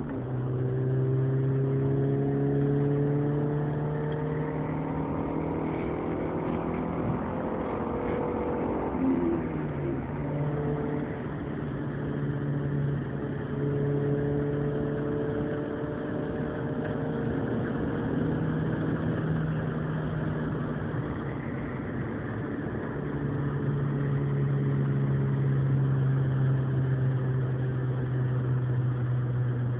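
Suzuki Swift Sport with a BBK full exhaust system heard from inside the cabin while driving: a steady engine and exhaust drone that rises and falls gently in pitch, with a dip and climb in pitch about nine seconds in.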